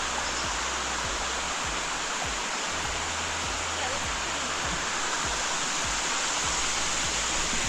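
Waterfall rushing steadily over rocks: an even, continuous roar of falling water.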